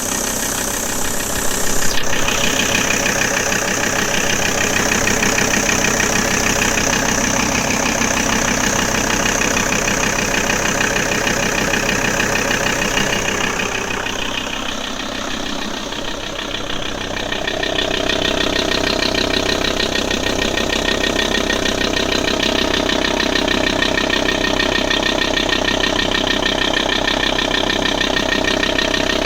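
Audi A6 C4 2.5 TDI five-cylinder turbodiesel running steadily at idle, with the strange noise that the owner is trying to trace. The tone shifts between about 14 and 18 seconds in, dipping briefly, then runs steady again.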